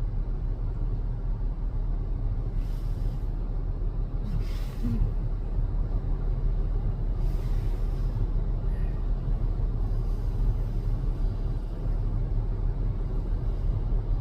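Steady low outdoor rumble, with four brief hissing swooshes spread through it.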